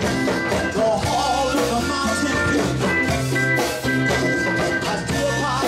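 A band playing an upbeat rock song with a steady drum beat.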